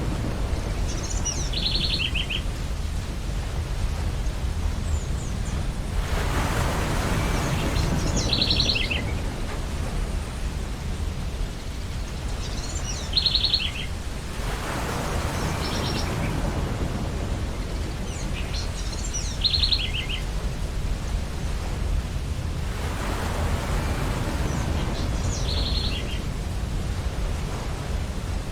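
Ocean surf: a steady low rumble with waves washing in about every eight seconds. Over it a bird calls five times in short bursts of rapid high chirps, spaced about six seconds apart.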